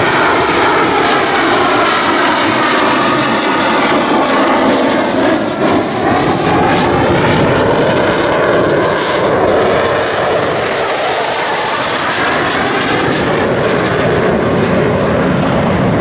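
Dassault Super Étendard's SNECMA Atar 8K-50 turbojet flying past low and slow at approach speed. The jet noise is loud and steady, with tones that sweep down and then back up as the aircraft passes.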